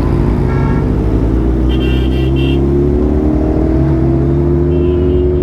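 Suzuki Hayabusa's inline-four engine running while riding, its pitch rising slowly from about three seconds in. Short vehicle-horn toots sound around it about half a second in, near two seconds and near the end.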